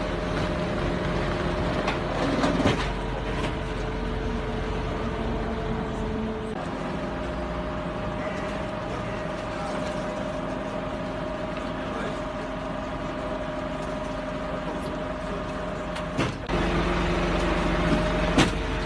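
A vehicle engine running steadily with a constant hum, the sound changing abruptly twice, with a few short clicks.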